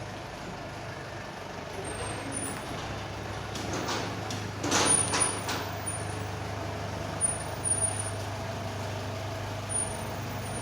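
Hino truck's diesel engine running slowly with a steady low hum. About halfway through there is a short burst of air hiss from the brakes, followed by a few short knocks.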